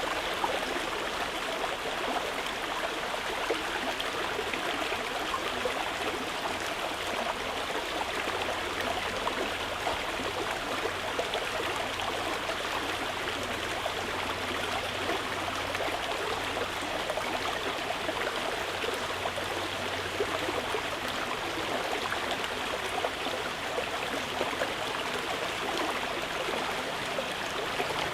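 Stream of water running steadily over rocks, with a continuous splashing and gurgling flow.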